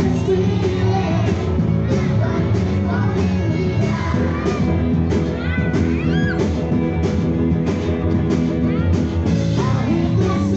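Live band playing an upbeat rock-and-roll song with a steady beat, with voices singing along.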